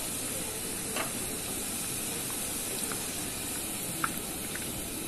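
Potato sticks sizzling steadily in hot oil in a frying pan during the first, light fry. A couple of faint clicks come from a metal slotted spatula touching the pan, about a second in and again near the end.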